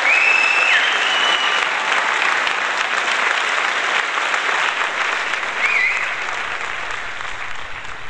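Audience applauding after a live song, with a few whistles from the crowd, the clapping slowly dying down.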